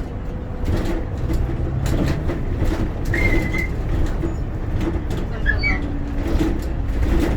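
Bus interior while driving: the engine runs with a steady low rumble, over loose rattles and knocks, and a short high squeak about three seconds in.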